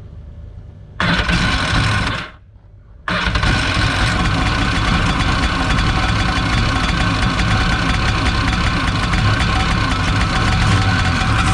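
1990 Kawasaki 650SX jet ski's two-stroke twin engine starting: it fires briefly about a second in and dies, then catches about three seconds in and keeps running steadily, on a freshly rebuilt carburettor.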